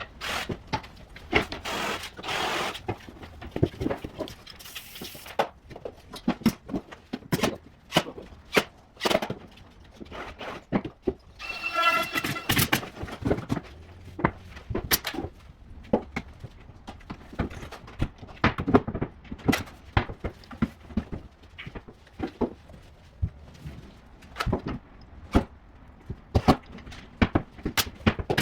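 Carpentry work: a string of sharp, irregular knocks and clacks, with a brief pitched squeal about twelve seconds in.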